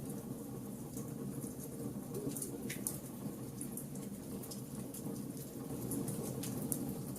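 Wood fire burning, with irregular sharp crackles and pops over the steady low rush of the flames.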